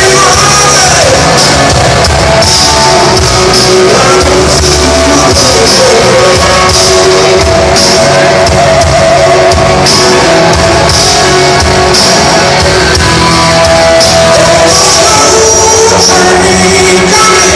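Live blues-rock band playing loudly: electric guitar lines over bass and drums, with cymbal crashes recurring through the passage.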